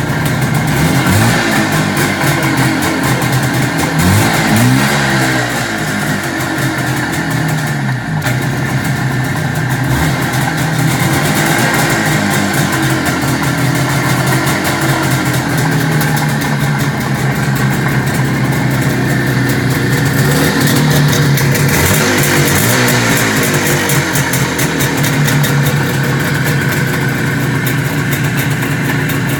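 1973 IZH Jupiter 3 350cc two-stroke motorcycle engine running loudly just after a kickstart, revved up and back down several times: about a second in, around four seconds in, and again after twenty seconds. It has freshly been brought back to running after years of not running, with the points and carburettor just set.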